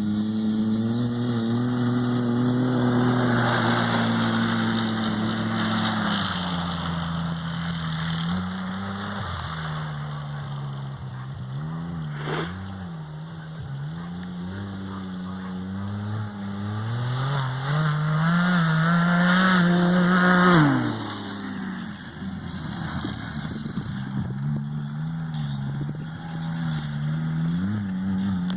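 Ski-Doo Rotax 900 ACE Turbo three-cylinder four-stroke snowmobile engine running through a GSE Performance Trail Tamer muffler. Its note rises and falls with the throttle, climbing to its highest about twenty seconds in, then dropping quickly to a low idle with short blips near the end.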